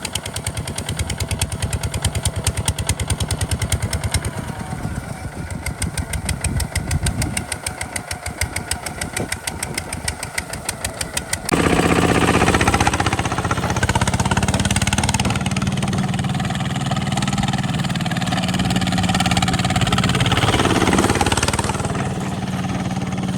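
Kubota RT140 DI single-cylinder diesel engine running with rapid, even beats. About halfway through, the sound jumps suddenly to a louder, steadier drone.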